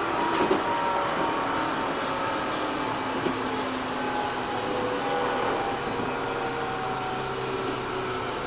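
Running sound of a JR 205 series 600 subseries electric train heard from inside the car: a steady rumble of wheels on the track, with faint whining tones that come and go.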